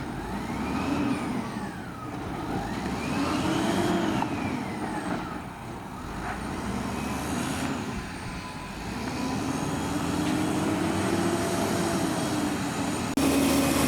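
Diesel engine of a Peterbilt 320 garbage truck revving up and falling back several times over a steady low rumble, with an abrupt change in the sound near the end.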